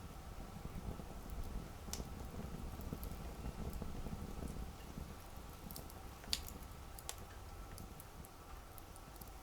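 Wood campfire burning: a low rumble of flame with scattered sharp crackles and pops, the loudest about six seconds in.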